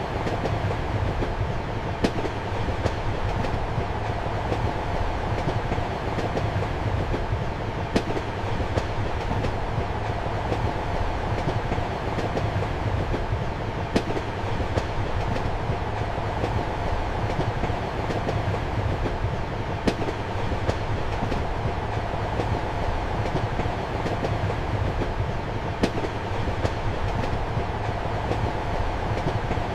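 A passenger train running steadily, heard from inside a compartment: a continuous rumble and hum of the carriage. Sharp wheel clacks over rail joints come about every six seconds, some followed by a fainter second clack.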